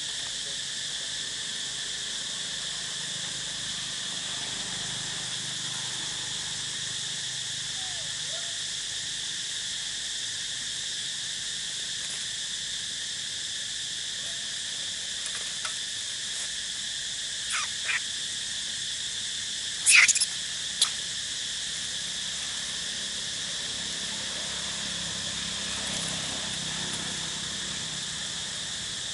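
A steady outdoor insect chorus, an even high-pitched chirring that does not let up. A few short, sharp, high sounds break through about three-quarters of the way in, the loudest a brief pair near the twenty-second mark.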